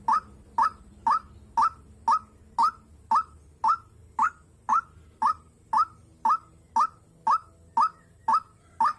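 White-breasted waterhen (dahuk) calling: a monotonous series of short rising notes, about two a second, evenly spaced.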